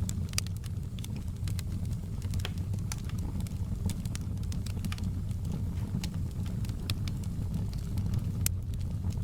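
Fireplace fire burning with a steady low rumble and irregular sharp crackles and pops, one louder pop near the end.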